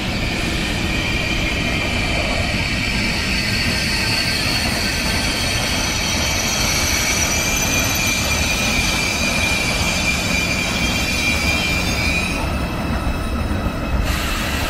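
Train running along the track with loud rail rumble and a high-pitched squeal of several steady tones from the wheels, which fades out about twelve seconds in.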